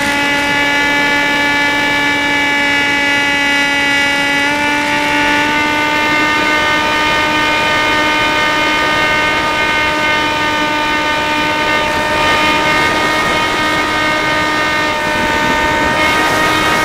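Electric motor and propeller of a Dynam Hawk Sky RC glider running in flight, a steady whine that steps slightly higher in pitch about four and a half seconds in as the throttle is nudged up.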